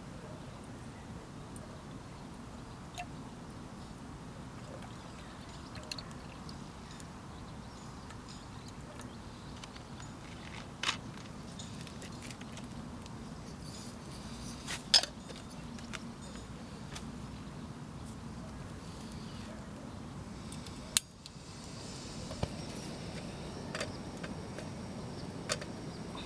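Portable gas burner running steadily under a kettle, with a few sharp clicks and knocks. The sound changes abruptly about 21 seconds in.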